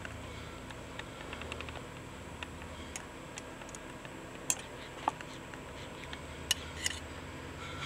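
Faint, scattered small clicks and light taps, irregularly spaced, over a low steady background.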